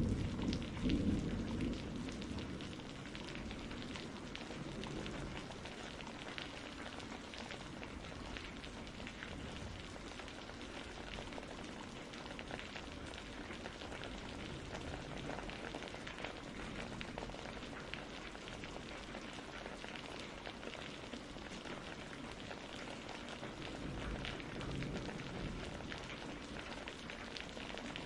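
Steady rain, an even hiss full of fine drop ticks, as storm ambience. A low rumble of thunder dies away over the first couple of seconds, and a fainter low rumble swells briefly near the end.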